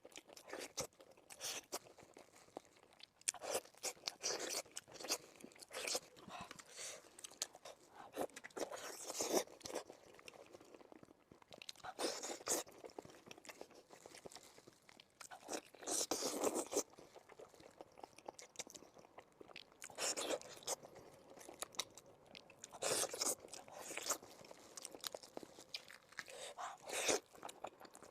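Close-miked eating of pork bones: biting, chewing and crunching in bursts every few seconds.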